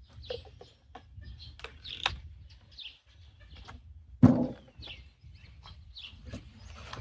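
Small birds chirping repeatedly in short high notes, with scattered clicks of handling and one loud knock a little over four seconds in.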